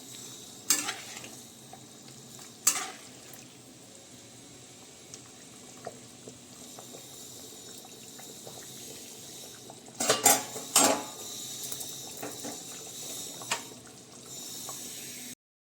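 A metal spoon clanks and scrapes against a cooking pot while chicken curry is stirred, over a steady low sizzle of frying. There are sharp clanks about a second in and near three seconds, and a cluster of them around ten to eleven seconds. The sound cuts off abruptly just before the end.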